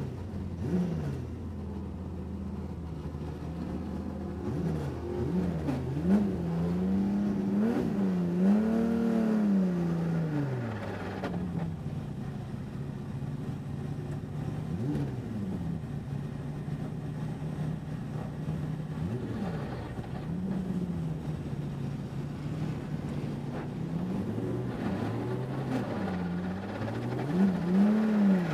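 Race car engine running with the throttle worked up and down, its pitch rising and falling several times, with a longer climb and fall about eight to ten seconds in and a quick rise near the end.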